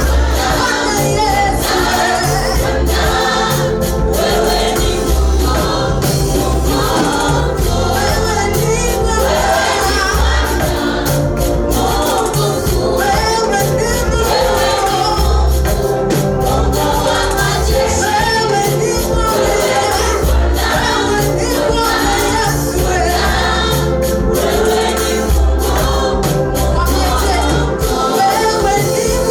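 A gospel choir singing in harmony with band accompaniment and a steady bass beat.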